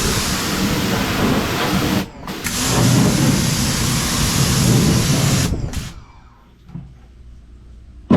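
Pressure washer spraying in a loud, even hiss. The spray stops briefly about two seconds in, runs again, then stops near six seconds and stays off.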